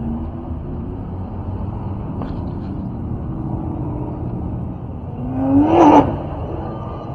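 Car engines running with a steady low rumble, and one engine briefly revving about five seconds in. It rises in pitch and cuts off sharply after about a second, and this rev is the loudest sound.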